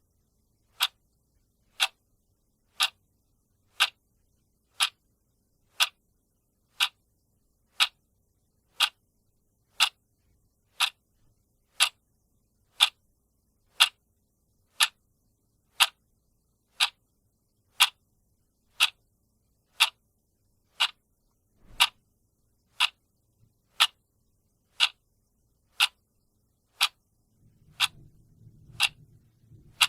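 Clock ticking steadily, one sharp tick a second. A faint low rumble comes in near the end.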